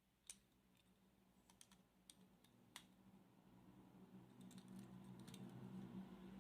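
Near silence with a few faint, sharp clicks and taps of small diecast model cars being handled, over a low steady hum that grows a little louder toward the end.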